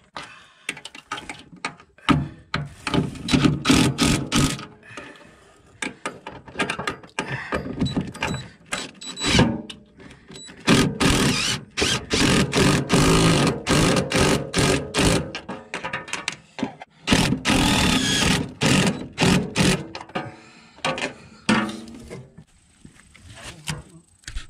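Mechanical tool noise in repeated stop-start bursts, with ratcheting and clanking.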